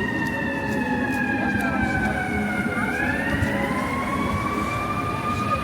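Emergency vehicle siren in a slow wail: its pitch slides down, turns about three seconds in, climbs back up and then holds. Low, steady city traffic rumble lies beneath.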